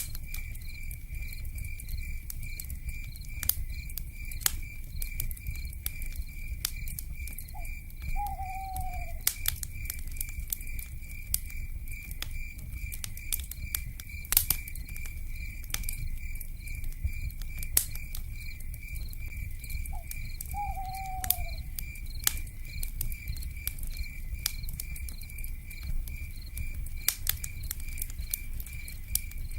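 Wood fire crackling with scattered sharp pops and a low rumble, over a steady pulsing insect trill of cicadas. Twice, about 12 seconds apart, an owl gives a short note followed by a longer call that falls in pitch.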